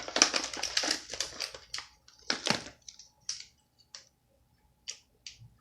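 Crinkling and crackling of a chocolate's wrapper being handled and opened, dense for about the first second and a half, then scattered short crinkles.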